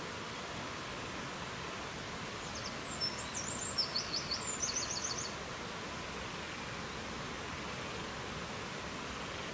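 A small songbird sings one short high phrase about three seconds in. A few separate notes run into a quick trill of repeated notes. Under it is a steady rushing wind.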